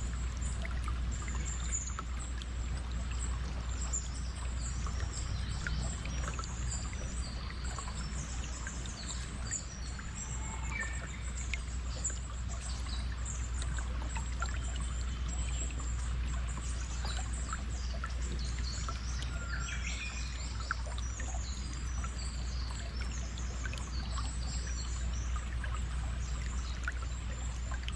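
Flowing stream water, with many small birds chirping and calling high above it.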